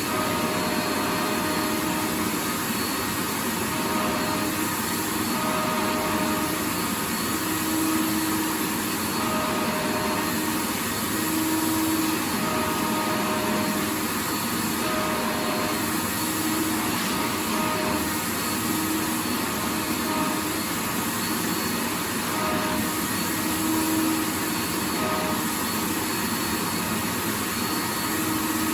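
Vacuum cleaner running continuously: a steady, even rushing noise, with a motor hum that fades in and out every second or two.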